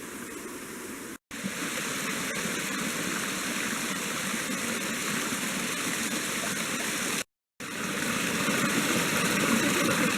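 Waterfall: a steady rush of falling water, cut off briefly by two silent drop-outs, about a second in and about seven seconds in.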